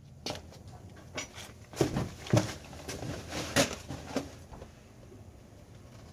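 Irregular knocks and clunks of hand tools on metal while work goes on at a truck's coil-spring suspension. About half a dozen separate hits, the loudest about two and two and a half seconds in and again at three and a half, then they stop.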